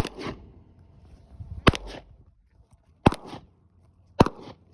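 A .22 LR HK416-pattern rifle firing Sellier & Bellot 40-grain Club rounds: four single shots, about one to one and a half seconds apart. Each sharp crack is followed by a softer tail.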